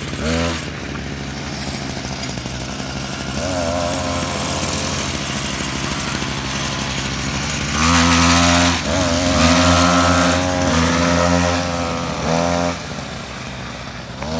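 Small engine of a children's V-Fire mini motorcycle running, louder from about eight seconds in, with its pitch rising and falling as it is revved.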